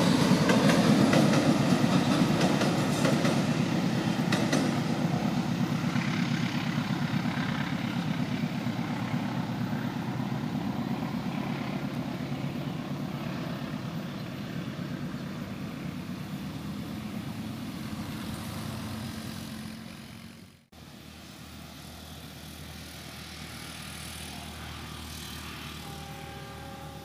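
Passenger train rolling away, its wheel-and-rail noise fading gradually over about twenty seconds. It cuts off suddenly, and a fainter steady hum follows, with a few brief tones near the end.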